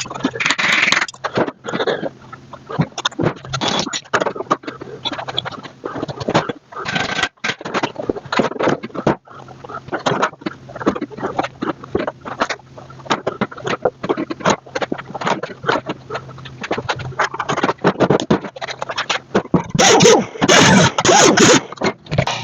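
Irregular scraping and clattering of hand work on metal, with a steady low hum underneath; the scraping grows louder and denser near the end.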